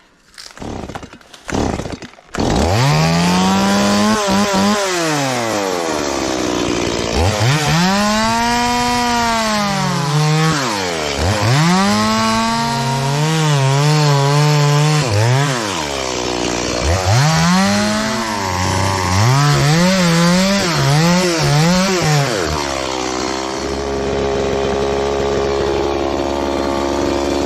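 A two-stroke chainsaw starts up about two seconds in and cuts into wood, its engine speed repeatedly rising and falling as it works. It settles back to a steady idle near the end.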